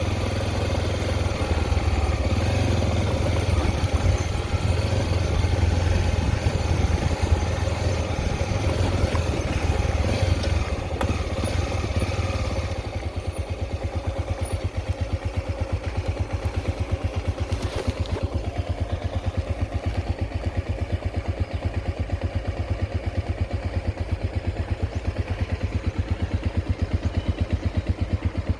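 Honda XR 250 Tornado's single-cylinder four-stroke engine running. About twelve seconds in it drops to a steady idle with evenly spaced firing pulses.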